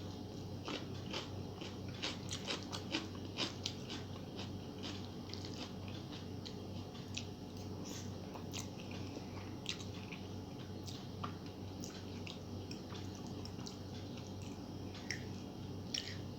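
Close-miked eating: biting and chewing noodles and egg masala, with many short wet mouth clicks and crunches, thickest in the first few seconds and again near the end.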